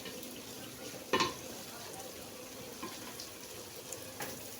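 Fried rice being stirred in a pot over low heat: a faint, steady sizzle, with a spoon knocking and scraping against the pot, loudest once about a second in.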